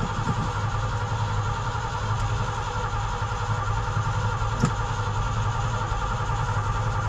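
A carbureted 1981 Ford Bronco V8 being cranked over steadily by its starter on a cold start with no choke, without catching. The owner takes this for a flooded engine. One short tick comes about two-thirds of the way through.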